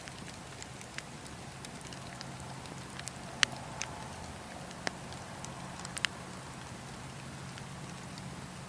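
Wood fire crackling, with a handful of sharp, irregular pops from the burning wood, the loudest about three and a half seconds in, over a steady low hum.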